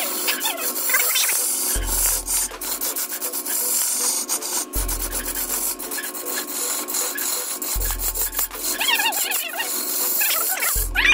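A tool scraping and rasping against wood, a continuous scratchy noise with many small clicks, as wood is shaped on a turning machine. A deep bass note sounds about every three seconds.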